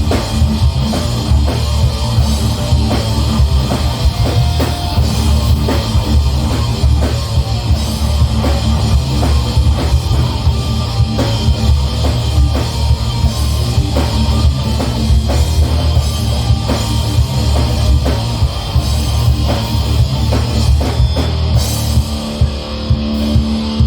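Heavy metal band playing live: fast, dense drumming with heavy distorted guitars. Near the end the drumming drops away, leaving a held guitar chord ringing.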